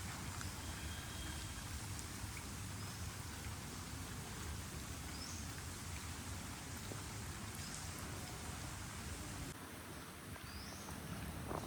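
Steady rain falling, an even hiss, with a few short high chirps over it.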